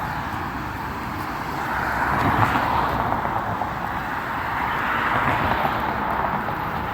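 Recycling truck running: a steady engine and road rumble that swells a little about two seconds in and again about five seconds in.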